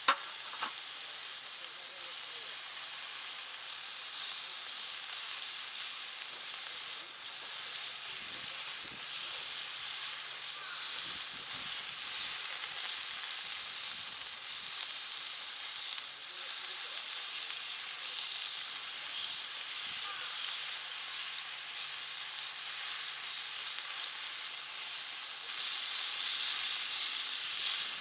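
Meat sizzling steadily on a cast-iron Genghis Khan (jingisukan) grill pan heated by a wood fire, with a few brief pops.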